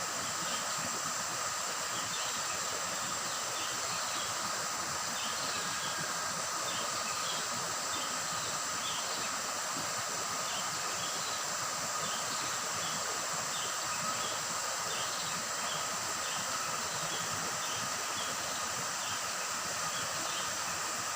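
Steady rush of a rocky river flowing, with insects droning steadily and short high chirps repeating about once a second.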